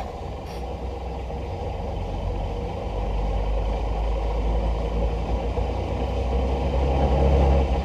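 The electric BMW E46's 3-phase AC motor, driven by a home-built inverter, turns the drivetrain and spinning wheels. It runs steadily and grows louder toward the end, with a deep hum under mechanical running noise. The run is smoother since the minimum slip frequency was lowered, though the builder still judges the slip too high.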